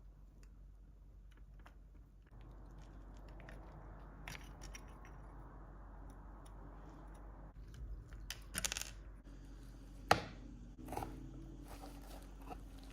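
Hand work on parts: scattered clicks and short scrapes, with one sharp knock about ten seconds in.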